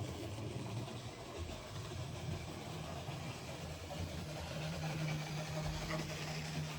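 Model train running on the layout: a steady low electric motor hum with wheel noise on the rails, one tone growing stronger about four and a half seconds in.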